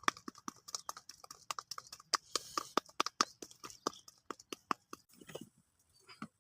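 Close-up crunching and chewing of raw, unripe papaya: a quick run of crisp crunches, several a second. They thin out to a couple of last crunches about five seconds in.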